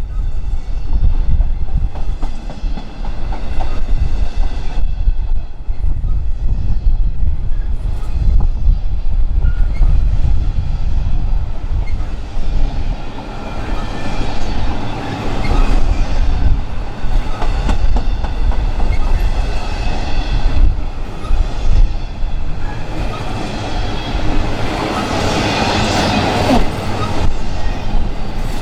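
A train rolling through the station, wheels clicking over rail joints over a steady low rumble. Faint high ringing tones rise and get louder near the end.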